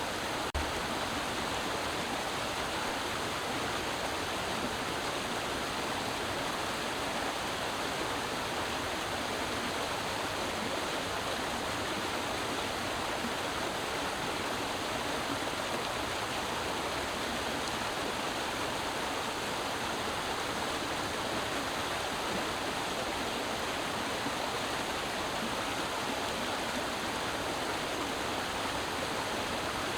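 Creek water running steadily, an even, unbroken rush.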